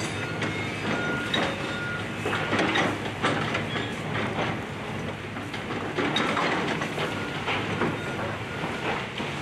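Excavator tearing down a house: the machine runs under load amid repeated crunching and cracking of timber and debris, with a few short high squeals.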